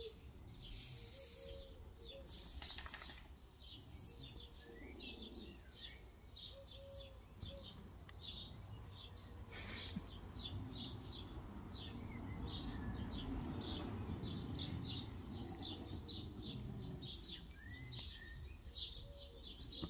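Small birds chirping outdoors, several short high chirps a second without a break, over a low steady rumble. A few brief noisy bursts come about a second in, near three seconds and near ten seconds.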